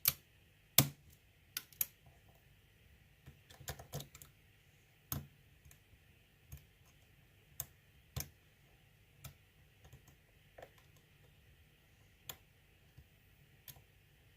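Irregular sharp metallic clicks of a lock pick working the pins of an ASSA six-pin euro cylinder with security pins, the two loudest in the first second.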